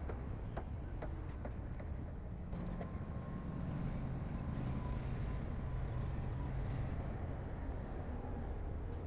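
Heavy diesel earthmoving machinery running steadily, with a few sharp metallic clicks in the first couple of seconds. The engine note strengthens slightly about three seconds in.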